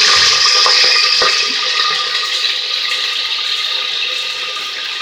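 Sliced onions and curry leaves sizzling as they fry in hot oil in a pressure cooker, a dense hiss that slowly dies down.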